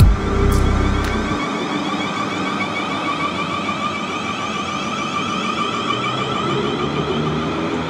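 A South Western Railway Class 444 electric multiple unit running past on the rails: a steady rumble of wheels and rail, with a whine from its traction equipment over it.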